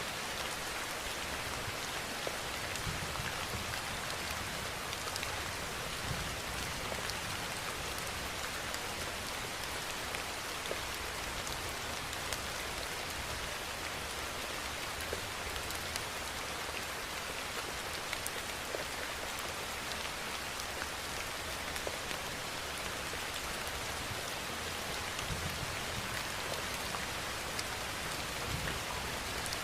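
Steady rain falling and pattering on a surface, with scattered close drop ticks.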